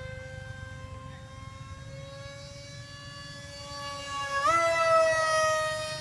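Homemade Su-27 model plane's motor whining steadily in flight. About four and a half seconds in the pitch rises sharply and the sound gets loud, then it slowly falls again.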